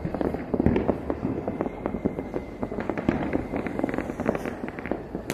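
Fireworks and firecrackers going off continuously: a dense crackle of many overlapping pops and bangs, with one louder bang just under a second in.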